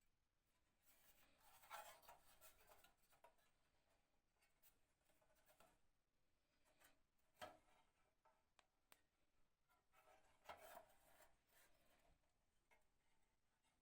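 Near silence with faint rubbing and scraping of handled objects, louder for a moment about two seconds in and again near the eleventh second, with a single sharp click about seven and a half seconds in.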